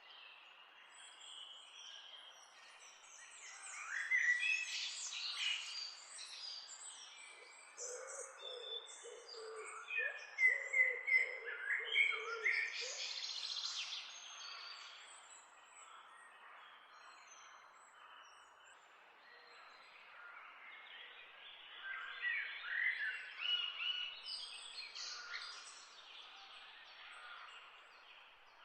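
Small birds chirping and twittering in overlapping bursts, livelier about four seconds in, again from about ten to fourteen seconds in, and again after twenty seconds. Near the middle there is also a run of short, lower repeated notes.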